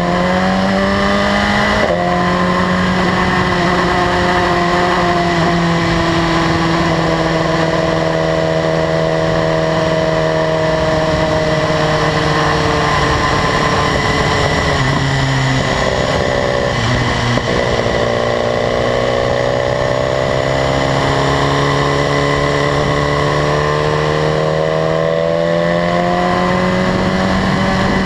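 2015 BMW S1000RR's inline-four engine under way, heard from the bike. The revs climb and then drop sharply about two seconds in with an upshift, ease off slowly, break up briefly around the middle, then climb steadily again toward the end.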